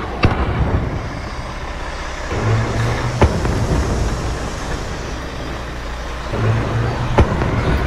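Heavy truck running, heard from inside the cab on a rough road, with three sharp knocks spread through it.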